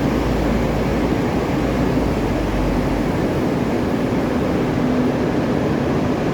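A boat's engine running steadily under way, a loud continuous rumble with a faint steady hum, mixed with wind and water noise.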